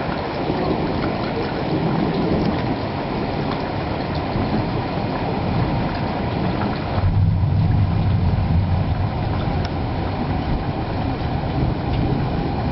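Thunder rolling in a steady low rumble, swelling into a heavier low rumble for a couple of seconds just past the middle.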